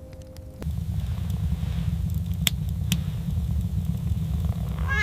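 A held musical chord cuts off about half a second in and a loud, steady low rumble of wind sets in, with a few sharp crackles. A kitten's mew starts right at the end.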